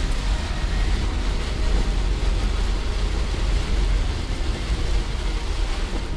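Mitsubishi L300 van on the move: a steady low road-and-engine rumble under a constant wash of noise, with wind on the microphone.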